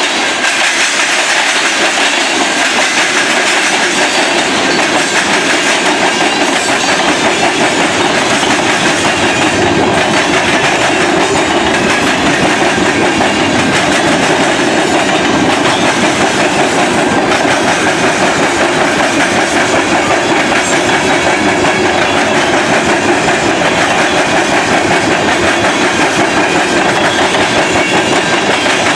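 Freight train cars rolling past steadily, with a continuous clatter of wheels over the rails.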